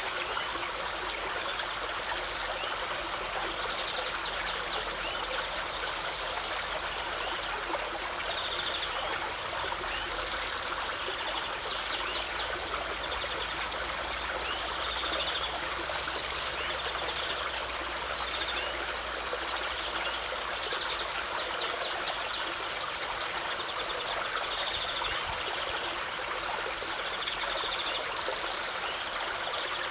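River water flowing steadily over stones, a constant trickling stream. Faint short high calls recur every few seconds.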